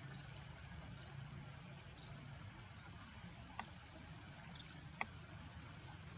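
Faint steady background hiss with a low hum, broken by two sharp clicks about a second and a half apart and a few faint short high chirps.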